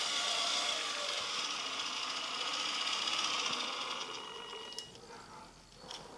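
Small electric drive motor and gearbox of a radio-controlled Bruder Scania model truck running with a steady whine, fading and stopping about five seconds in, followed by a couple of faint clicks.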